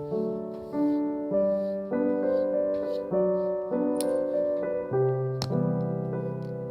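Background piano music: gentle chords changing every half second to a second.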